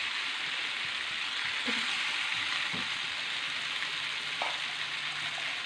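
Masala-coated chicken pieces sizzling steadily as they fry in hot oil in a pan, stirred now and then with a wooden spatula.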